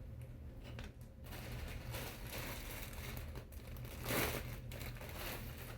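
Irregular rustling and crinkling, loudest in one burst about four seconds in, over a steady low hum.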